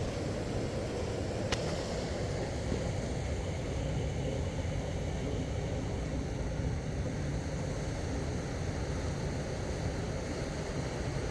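Steady low rumbling noise, with a single sharp click about a second and a half in.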